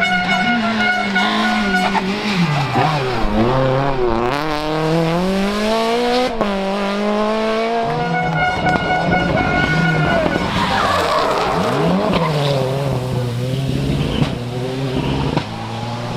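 Rally car engine revving hard, its pitch rising and dropping again and again through gear changes and lifts, with tyres squealing and skidding under it.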